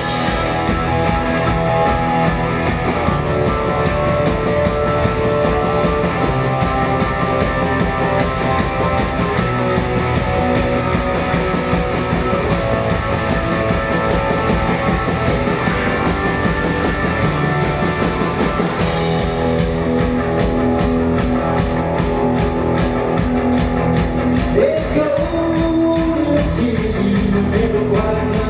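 Rock band playing live: a steady, driving drumbeat under sustained electric guitar chords and bass, with the cymbals coming up about two-thirds in and a singing voice entering near the end.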